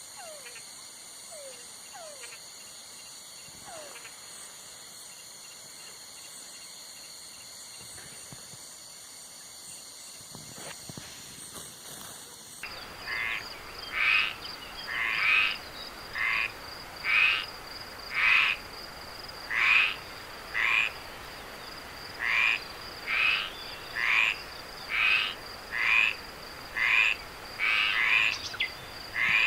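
A steady, high insect trill fills the first part; about twelve seconds in it cuts abruptly to a frog calling over and over, roughly once a second, with a steady high insect whine beneath.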